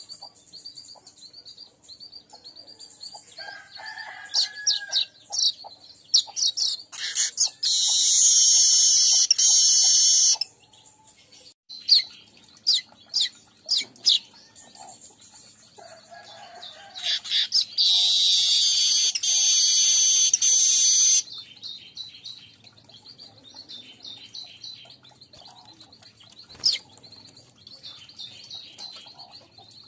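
Streaked weaver (manyar kembang) calling: repeated short high chirps, broken twice by a long, loud, buzzy wheezing song lasting about three seconds each.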